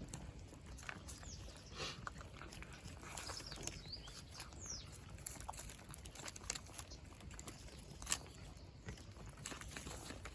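Cats eating: faint scattered clicks and crunches over a low, steady background rumble.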